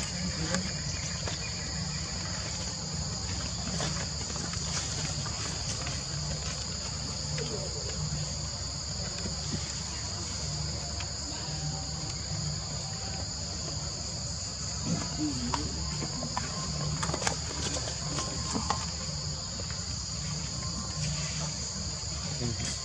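Steady chorus of insects buzzing at two high pitches without a break, over a constant low rumble.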